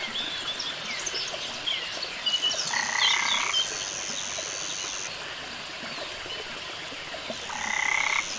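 A chorus of frogs calling, with scattered chirps over a steady high buzz. Two bouts of a rapid pulsed trill stand out: one about two to three seconds in, and another near the end.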